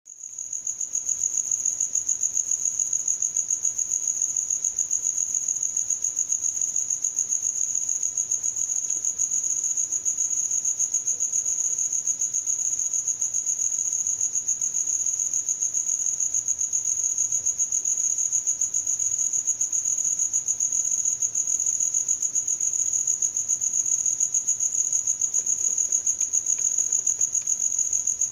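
Cricket chirping: one continuous high-pitched trill, pulsing rapidly and evenly without a break, fading in during the first second.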